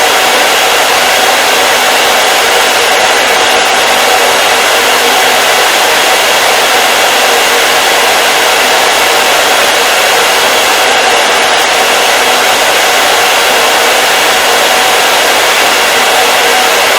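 Hair dryer running continuously, a loud, steady airflow noise with a faint motor hum and no change in speed.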